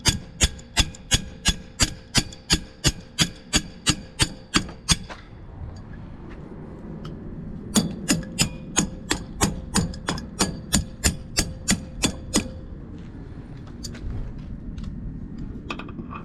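Rapid, even hammer blows on metal, about four a second, in two runs with a pause of a couple of seconds between, a faint ringing tone under each run: hammering on a Copeland semi-hermetic compressor to drive its crankshaft loose from the bearings.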